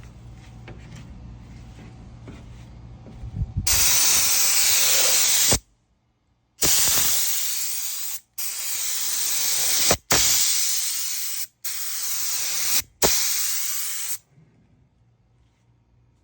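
Air spray gun spraying paint in six loud bursts of hiss, one to two seconds each with short breaks as the trigger is released between passes. A low steady hum comes before the spraying starts.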